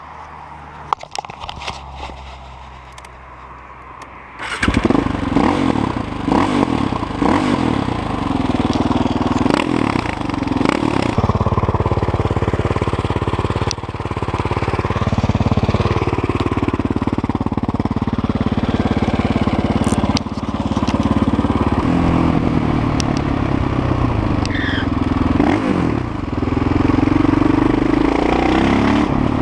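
KTM LC4 640 single-cylinder motorcycle engine: a quieter low running for the first few seconds, then it opens up loudly about four seconds in and keeps running hard, its revs rising and falling again and again.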